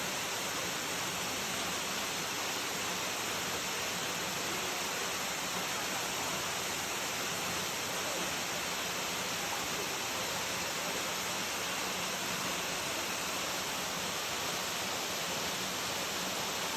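Steady rushing of flowing water, a stream or waterfall, an even hiss with no breaks.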